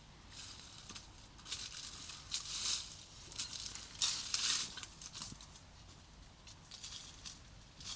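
Rustling and crinkling handling noises in irregular bursts, loudest in the first half, then a few faint ticks.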